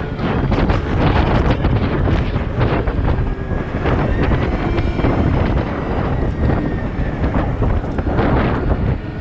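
Heavy machine engine running, with strong wind buffeting the microphone and a faint whine that rises and falls in the middle.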